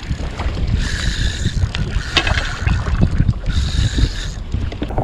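Wind buffeting a kayak-mounted action camera's microphone in rough sea, with water washing and splashing against the kayak hull in hissing bursts about every three seconds.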